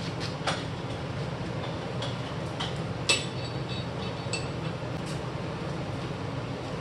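Steel parts and tools being handled: scattered metal clicks and taps, with one loud ringing clink about three seconds in, over a steady low hum.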